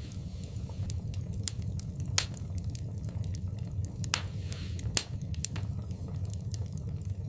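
Wood fire in a fireplace burning with a low steady rumble and scattered sharp crackles and pops, the loudest pops about two seconds in and near five seconds in, with a brief hiss just after four seconds.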